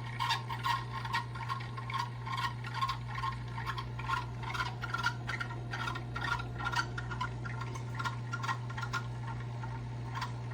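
GE Profile Opal nugget ice maker running: a steady low motor hum with rapid, irregular clicking and crackling of ice and water throughout.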